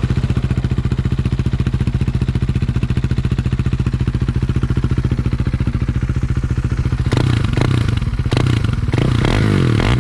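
KTM Duke 390 single-cylinder engine idling through a MIVV GP carbon full exhaust system, with an even, steady beat. About seven seconds in it gets louder and rougher, and near the end the engine note rises and falls as the throttle is worked.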